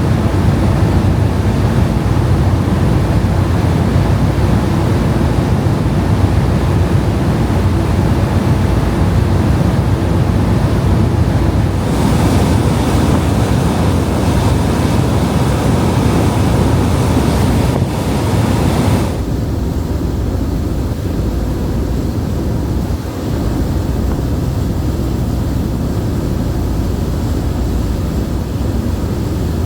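Steady loud rumble and rushing water aboard an Incat high-speed catamaran car ferry under way at sea. A hissier stretch runs from about twelve to nineteen seconds in, then the sound drops back to the lower rumble.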